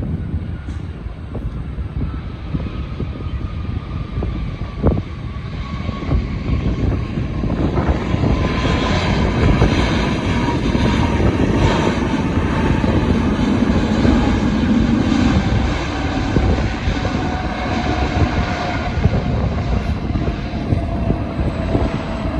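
Airliner flying past on its landing approach. The engine noise swells to a peak around the middle and eases off, with a whine that falls slowly in pitch throughout.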